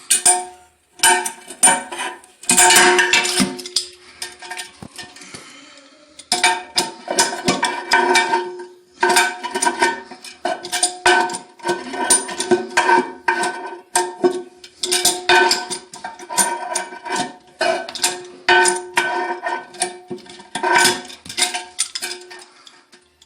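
Repeated metallic clinks and knocks of a hand tool working on a toilet tank's flush-handle nut, each strike ringing briefly at the same pitch, with a quieter pause about four seconds in.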